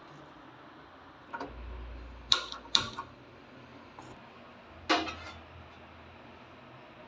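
Kitchen utensils clattering: a faint knock, then two sharp loud clacks in quick succession, and one more knock with a short ring about two seconds later.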